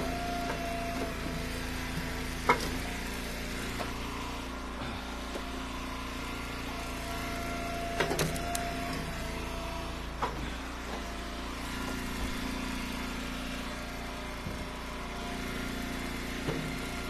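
Wood splitter's engine running steadily, with a few sharp knocks of split firewood being handled and thrown, the loudest about two and a half seconds in.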